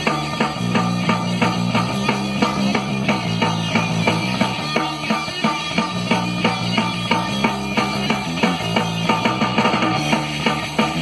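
Rock band playing live: electric guitar and bass over a fast, steady drum-kit beat.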